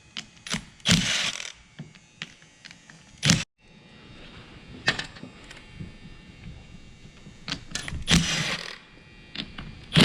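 Small metal engine parts and hand tools clinking and knocking as they are handled, with two longer rattling, scraping bursts, about a second in and near the end.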